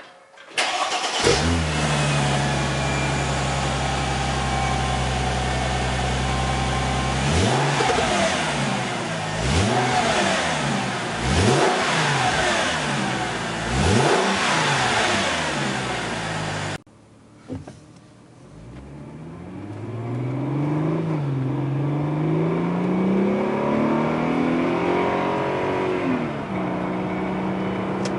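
Mercedes CLK 320's 3.2-litre V6, through an aftermarket Supersport rear silencer, starting with a brief flare and settling to a steady idle. It is then revved in four or five short blips that rise and fall. After an abrupt break the engine pulls and climbs steadily in pitch for several seconds, then holds an even note.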